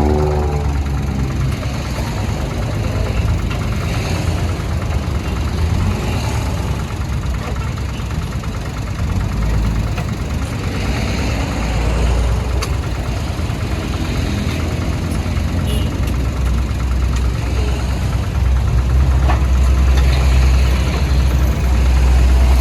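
Diesel engine of a CAT backhoe loader running steadily under work, growing louder for the last few seconds, with a few sharp knocks.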